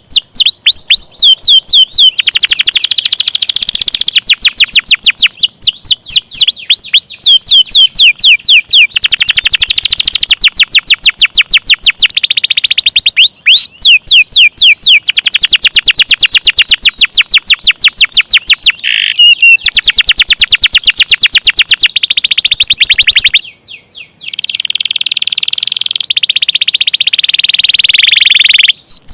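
Domestic canary singing long rolling trills: very rapid runs of repeated high-pitched notes, each held for several seconds, broken by a short pause about halfway and another near the end.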